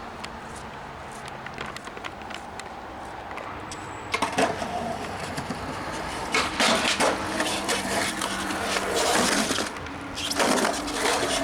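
Skateboard rolling and clacking: scattered light clicks at first, then from about four seconds in a louder, rough rolling noise with many sharp knocks of the board.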